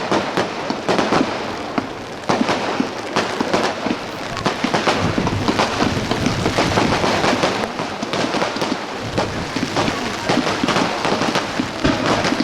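Aerial fireworks bursting in a rapid, continuous run of bangs and crackles, over the steady hiss of heavy rain.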